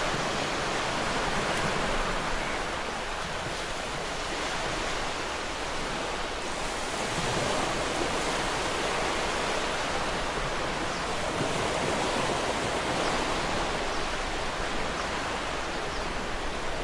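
Ocean waves breaking against rocks, a continuous rushing wash of surf that swells and eases gently in loudness without distinct single crashes.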